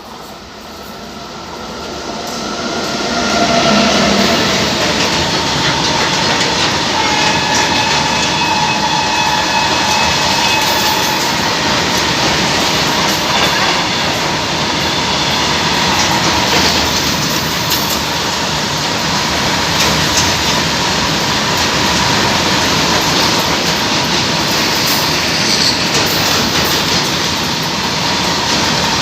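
An empty BOXN freight rake behind a WAG-9H electric locomotive passing at speed: the noise builds over the first few seconds, then holds as a steady loud rattle and clatter of empty wagons and wheels over the rails, with a thin, steady wheel squeal.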